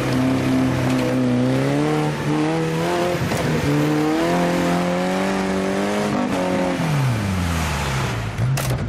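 Off-road 4x4 engine revving hard under load in the snow, its pitch sagging and climbing, then dropping away near the end as the throttle comes off.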